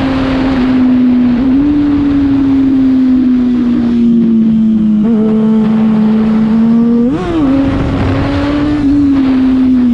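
Yamaha FZ6's inline-four engine running through a Leovince aftermarket exhaust at fairly steady high revs, the pitch drifting slightly. There is a short blip of throttle about seven seconds in and a smaller one about a second and a half in.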